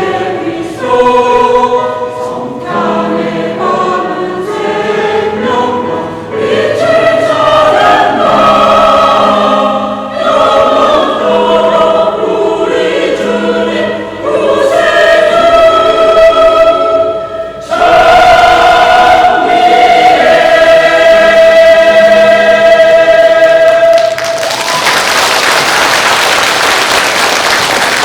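Church choir singing a Christmas anthem, closing on one long held chord. About three quarters of the way through, the singing stops and the congregation applauds.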